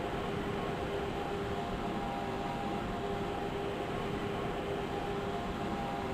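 Lisbon Metro ML90 train running, heard from inside the carriage: a steady rumble of rail and running noise with a steady whine.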